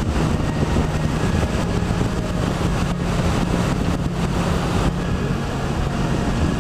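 Vader 125cc mini motorcycle being ridden: its small single-cylinder engine running under steady wind noise on the microphone. Background music plays underneath.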